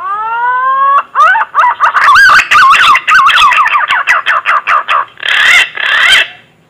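Green pigeon (punai) song played as a lure call: a rising whistle of about a second, then a rapid run of wavering whistled notes, ending with two harsher, buzzier notes near the end.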